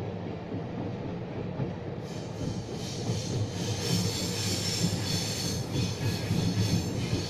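Croatian Railways passenger train running, heard from inside the carriage: a steady low rumble of wheels on rail. About two seconds in, a high metallic squeal of the wheels comes in and goes on over it.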